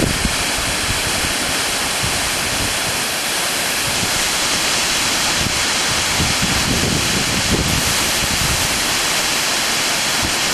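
Sudüşen waterfall pouring: a loud, steady rush of falling water.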